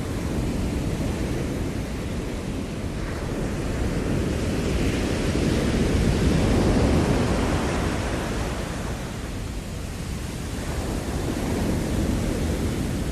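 Ocean surf washing ashore as a steady hiss and rumble. One wave builds to its loudest about six to seven seconds in and falls away, then a smaller swell comes in near the end.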